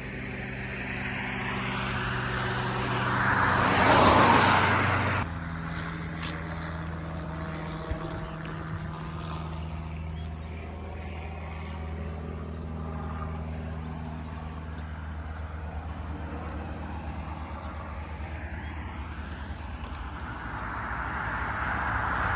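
Engines running with a steady low hum. A louder passing swell peaks about four seconds in and cuts off abruptly, and a steadier engine drone follows, rising again near the end.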